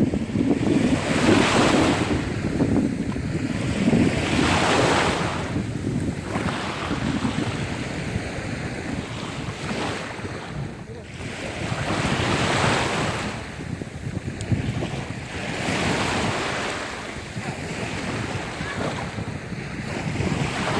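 Wind buffeting the microphone over the wash of sea waves, the rushing noise swelling and easing every two to three seconds.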